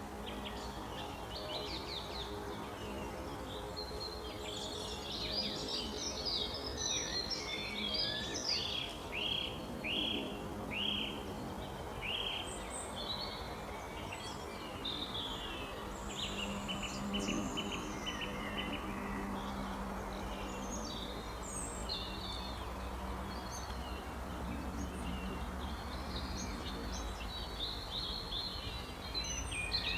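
Several birds chirping and calling, with a run of repeated down-slurred notes about a third of the way through, over a steady low hum.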